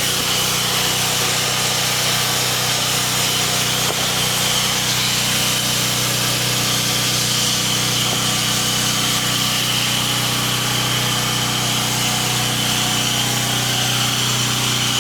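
Pressure washer running steadily, its engine and pump humming under the constant hiss of water spraying from the wand.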